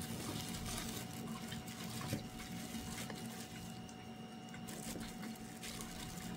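Faint wet chewing and mouth sounds of people eating a sandwich, with a few soft clicks over a faint steady hum.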